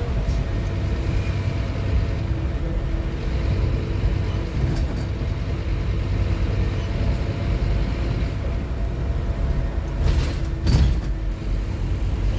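Scania N230UD OmniCity double-decker bus under way: a steady diesel rumble with a constant whine running through it. About ten seconds in come two short sharp knocks or rattles.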